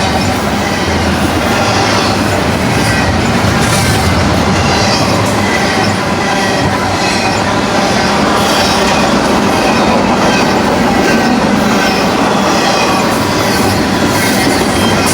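Double-stack container train rolling past at speed: a steady, loud rumble of steel wheels on rail, with a regular clatter that repeats about once a second.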